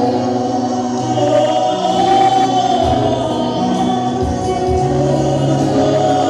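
Gospel choir singing with instrumental backing, held notes gliding between pitches over a steady bass.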